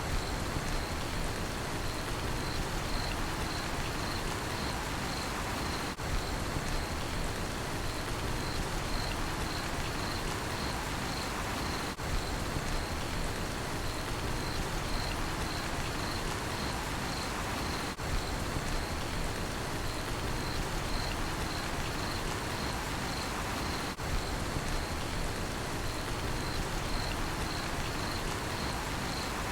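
Steady rainfall hissing on surfaces with a cricket chirping steadily, about twice a second, above it. The ambience is a loop that dips faintly every six seconds.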